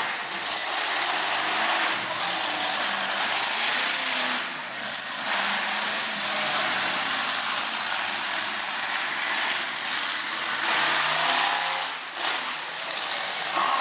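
Monster truck engine revving hard, its pitch rising and falling, with brief drops off the throttle a few times.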